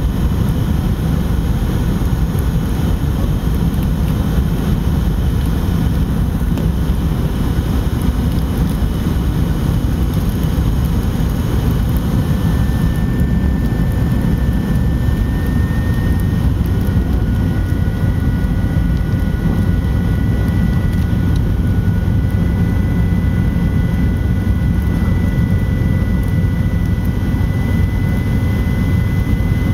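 Cabin noise inside a Fokker 70 airliner in flight: a steady, loud roar of airflow and its rear-mounted Rolls-Royce Tay turbofans. About halfway through, the hiss eases and a thin engine whine sets in, rising slowly in pitch as the thrust changes.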